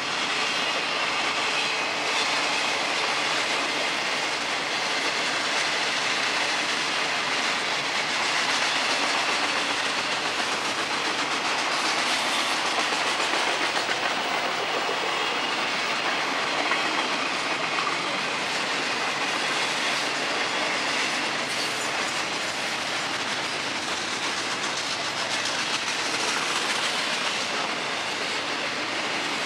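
Cars of a long Florida East Coast Railway intermodal freight train, double-stack container cars and trailer flatcars, rolling steadily past on steel rails: a continuous, even rolling noise of many wheels on the track.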